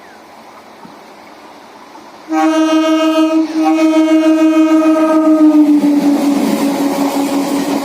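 An EMU passenger train's horn sounds loud and sudden about two seconds in: a short blast, then a longer one. Its pitch drops slightly as the train comes by, and the rushing rumble of the train running past takes over.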